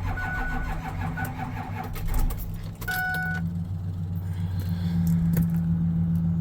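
A vehicle engine running steadily, with a two-tone warning chime beeping a few times near the start and again about three seconds in.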